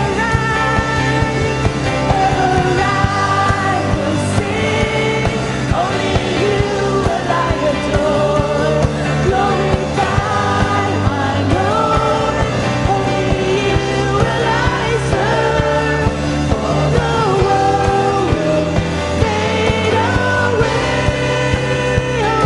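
Church worship music: a band playing a song with several voices singing over a steady bass and beat.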